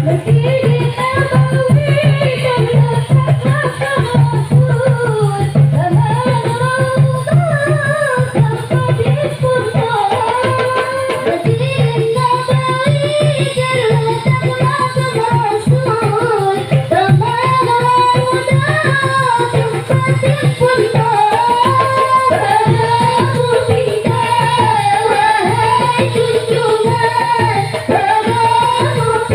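Marawis ensemble performing: a singer's winding melody over a fast, dense rhythm of hand-struck frame drums.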